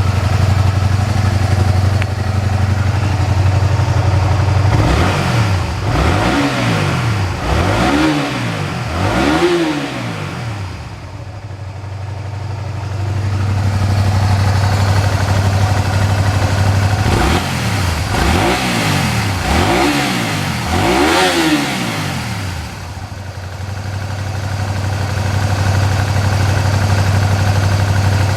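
Honda VTR250's V-twin engine through its stock muffler, idling steadily. About five seconds in, and again near the middle, it is revved in a few quick throttle blips before settling back to idle.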